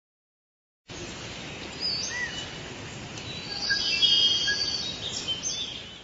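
Forest ambience: several birds chirping and whistling over a steady hiss, starting about a second in and fading out near the end.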